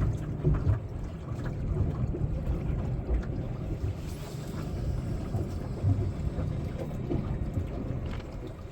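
Wind buffeting the microphone on a boat on open water, an uneven low rumble with a few faint clicks.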